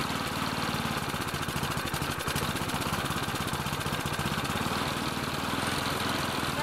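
Mountfield Emblem lawn mower's small petrol engine running steadily with a fast, even firing beat, its air filter off.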